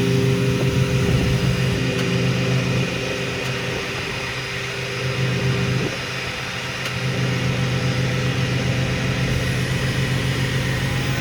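An engine running at a steady speed, its note easing off briefly about halfway through and then picking up again as the motorcycle is moved forward on the flatbed.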